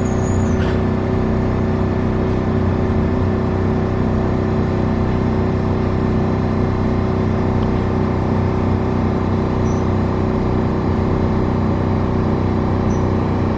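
Paris Metro Line 7bis train (MF 88 stock) running between stations: a steady drone of traction motors and steel wheels on rail, with several held tones over a rumbling noise.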